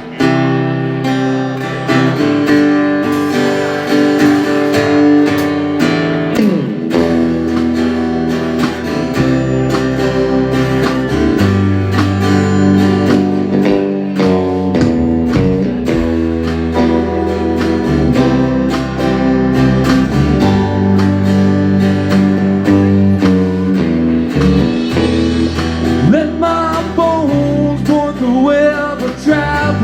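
A live band playing the instrumental opening of a song: guitar over a stepping bass line and a steady beat, with bending lead notes near the end.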